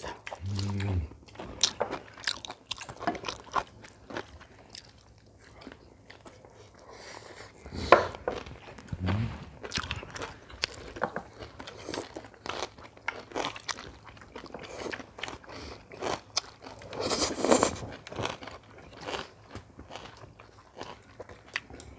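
People chewing and crunching food at a table: steamed squid with bean sprouts and Korean side dishes, with many small sharp crunches and a couple of louder, longer crunches partway through.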